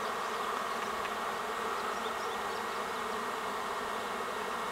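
Steady, dense buzz of a swarm of thousands of honeybees flying in the air, the swarm not yet settled into a cluster.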